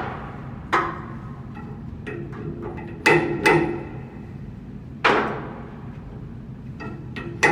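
Hammer striking metal during a bearing replacement on a blower wheel: about four spaced, uneven blows, each ringing on afterwards, with lighter taps between them.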